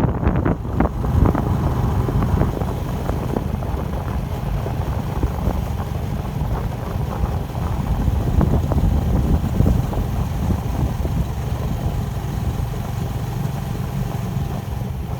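Steady low rumble of wind buffeting the microphone and road noise while riding a bike along a road.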